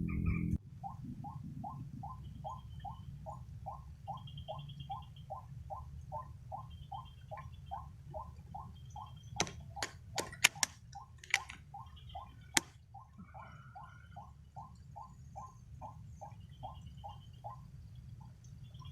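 A rail calling in an even series of short, identical notes, about three a second, over a low rumble. It pauses briefly about halfway through, where a handful of sharp clicks sound.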